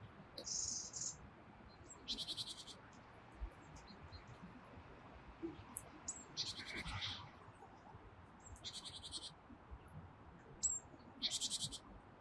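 Short, high trills from a small songbird, about five of them, each a rapid run of notes lasting about half a second and coming a couple of seconds apart. Thin high call notes and a few faint taps sound between them.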